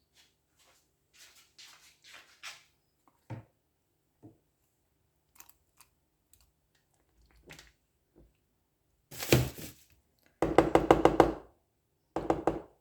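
Food-preparation handling sounds: faint rustles and a single knock, then near the end a loud clatter followed by two quick runs of rapid knocking, about ten strokes a second.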